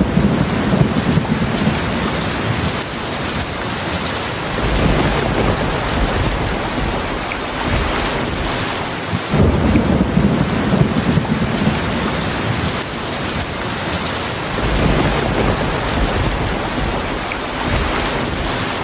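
Heavy rain falling steadily, with low rolls of thunder; new rumbles swell up near the start, about halfway through, and again about three-quarters of the way in.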